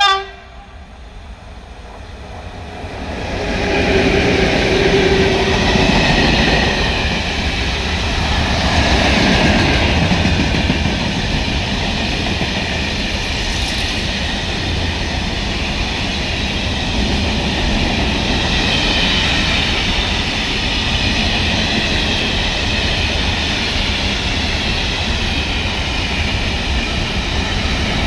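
Freight train double-headed by two PKP EU07 electric locomotives passing at speed: a short horn blast cuts off at the very start, then from about three seconds in a loud, steady rumble and rattle of wheels on rail as the long rake of open gondola wagons runs by.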